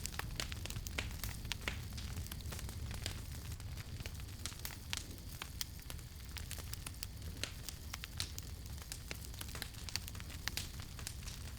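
Campfire crackling: many quick, irregular pops and snaps from the burning wood over a steady low rumble of the flames.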